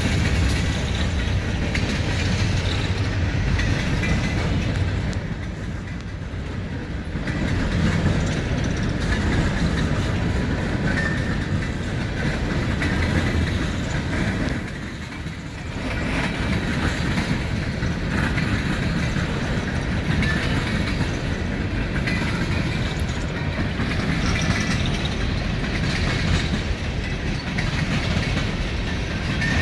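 Train running along the track, its wheels clattering over the rail joints, dipping briefly in level about five seconds in and again midway.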